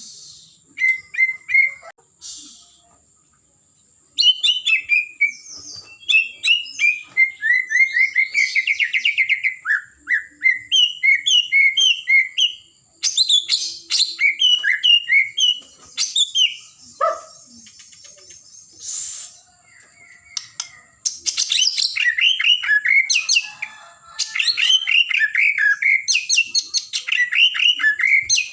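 White-rumped shama (murai batu) singing a long, varied song of rapid trills and repeated whistled notes, delivered in phrases broken by short pauses.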